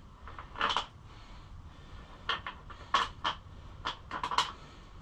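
Scattered clicks and knocks of stiff plastic body panels being handled and pushed into place on a pit bike, a cluster of quick clicks near the end.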